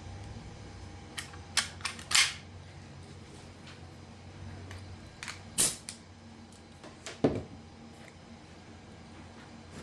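Pin nailer firing pin nails into glued plywood pieces: a string of sharp snaps and clicks, the loudest about two, five and a half and seven seconds in.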